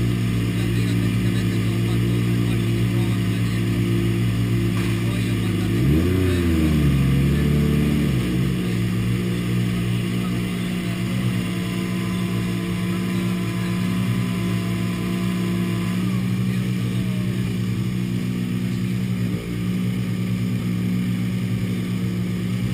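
Ford Fiesta RRC's 1.6-litre turbocharged four-cylinder engine idling steadily. About six seconds in it gives one quick blip of the throttle that rises and falls back to idle.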